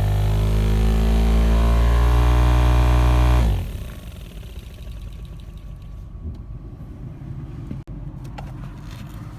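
Car running with the air conditioning on, making a loud drone whose pitch rises slowly; this is the abnormal noise-and-vibration fault being repaired. The drone cuts off abruptly about three and a half seconds in, leaving a much quieter background with a few faint clicks.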